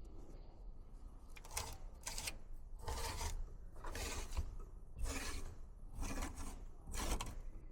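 Repeated scraping strokes, about one a second, as matted lint is cleared by hand from the fins of an evaporator A-coil clogged with lint.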